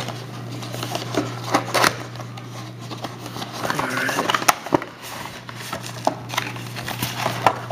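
Rustling and irregular clicks of a trading-card pack being opened and its cards, held in rigid plastic top loaders, being handled, over a steady low electrical hum.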